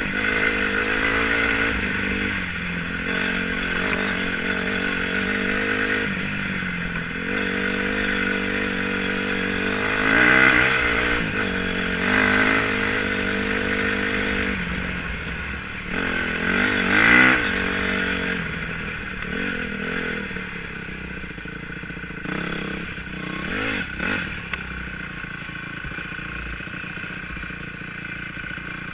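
Honda 250 enduro motorcycle riding off-road, its engine revving up and down with the throttle, with louder bursts about ten, twelve and seventeen seconds in and a lighter, steadier run near the end.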